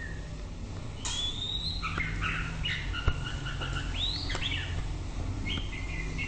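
White-rumped shama singing a run of varied whistled phrases, with a rising sweep, held notes and an arching note, and a sharp click about three seconds in. A steady low rumble runs underneath.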